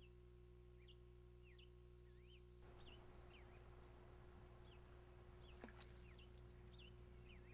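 Faint birdsong: short high chirps, one or two a second, over a quiet outdoor background that grows slightly louder about two and a half seconds in. A single faint tick near the middle.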